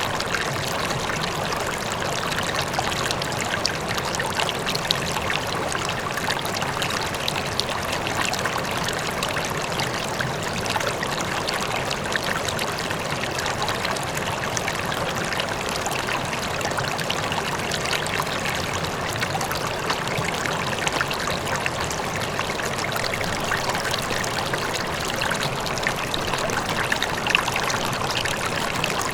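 River water flowing steadily over rocks, a continuous rushing and splashing with small trickles, the faint rumble of a distant waterfall blended into it.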